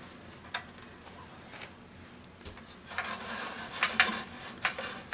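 Scattered light clicks and metallic clinks of tools being handled at a wood lathe that is not running, with a busier patch of handling noise from about three seconds in.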